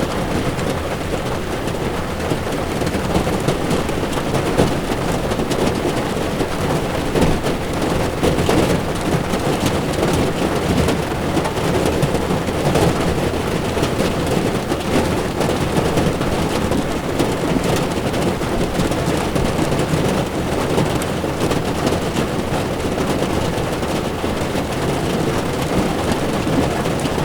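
Heavy rain drumming on a car's windshield and body, with the hiss of tyres on a wet road beneath it: a steady, dense patter.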